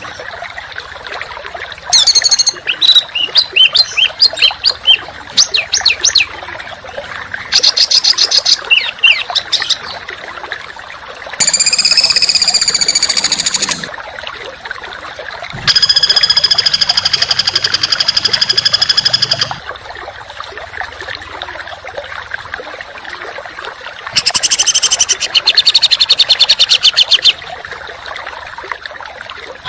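Small songbird calls in five loud bursts: fast runs of sharp chips, then long harsh buzzing notes, separated by gaps with a steady hiss underneath.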